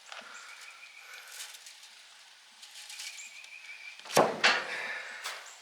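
Clinks and handling noise from copper winding coils being pulled out of an old electric motor, with a sharp knock about four seconds in and a few lighter knocks after it.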